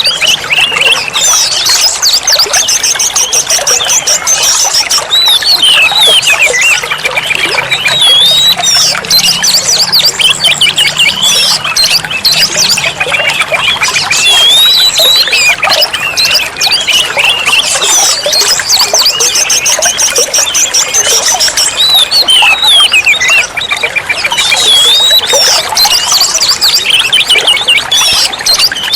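Oriental magpie-robin (kacer) singing without pause, a rapid run of varied whistles, slurred notes and chattering trills.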